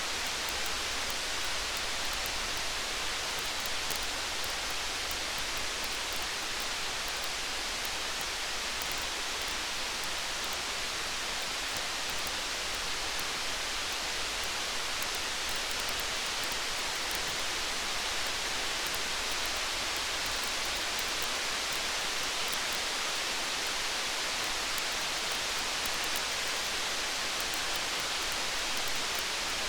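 Steady rain, an even hiss, with faint small crackles of a campfire scattered through it.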